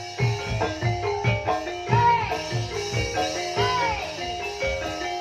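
Javanese gamelan music from Banyumas: mallet-struck keyed instruments play a dense running melody over repeated drum strokes, with a few sliding notes that rise and fall.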